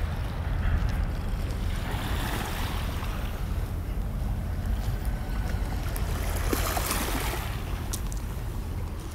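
Wind rumbling on the microphone over the steady wash of waves on a beach.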